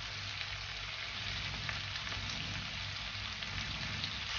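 Sliced onions, garlic, ginger and tomato sautéing in oil in a nonstick wok: a steady frying sizzle with small crackles.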